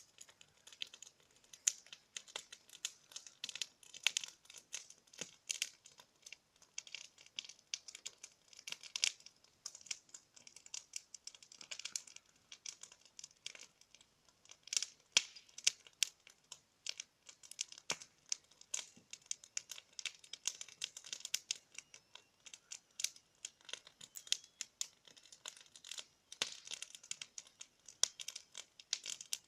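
Wood fire crackling, with a steady scatter of sharp irregular pops and snaps.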